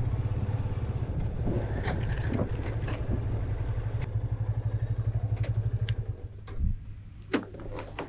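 Motorcycle engine idling with a rapid, even low beat that drops away about six seconds in, followed by a few sharp clicks and knocks.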